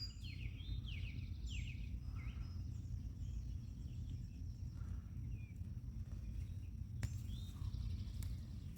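Birds chirping in short falling calls, several in the first two seconds and a few scattered later, over a steady low rumble. A single sharp tick about seven seconds in.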